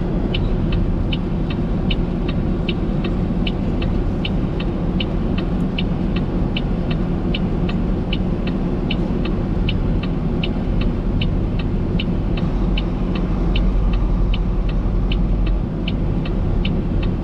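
A semi truck's back-up alarm beeping steadily, about two and a half high beeps a second, over the steady rumble of an idling diesel truck engine, as a tractor-trailer reverses.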